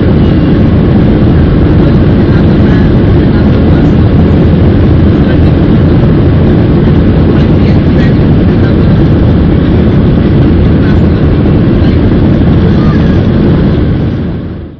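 Steady, loud cabin noise of a Boeing 737-800's CFM56-7B turbofan engines and airflow during the climb after takeoff: a deep, even rumble that fades out near the end.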